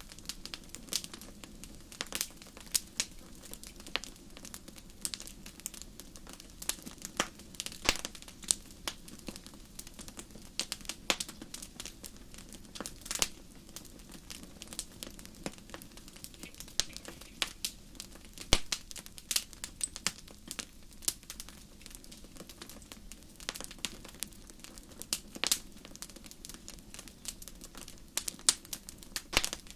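Wood fire burning in a fireplace: irregular sharp crackles and pops over a steady low hiss of flame.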